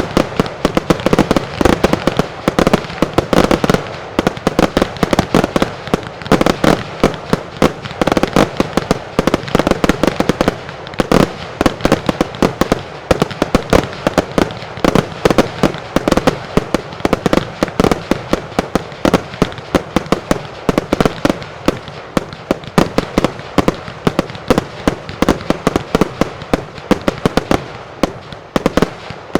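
Mascletà fireworks: a dense, rhythmic barrage of loud salutes and reports (truenos) cracking several times a second without a break, thinning slightly near the end.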